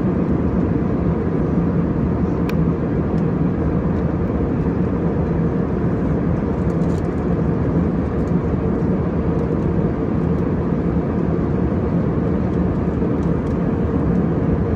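Steady in-flight cabin noise of an Airbus A320: an even rush of air with a low hum from the engines.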